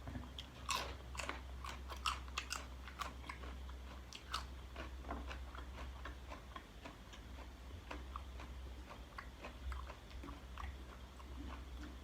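A person biting and chewing spicy chicken-feet salad close to the microphone: a string of crunchy clicks and wet smacks, densest in the first few seconds, over a steady low hum.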